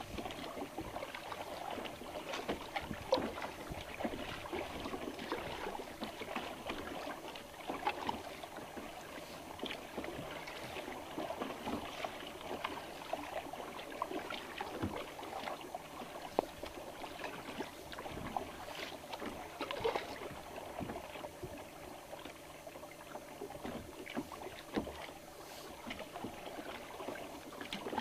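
Water lapping and splashing against the plastic hull of a Prowler Trident sit-on-top fishing kayak, with many small irregular ticks and splashes.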